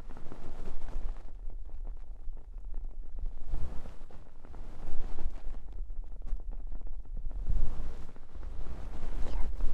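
Ear cupping on a binaural dummy-head microphone: hands or soft objects press and rub over the mic's ears, making a muffled, rumbling whoosh that swells and fades unevenly. A few faint crackles sound through it.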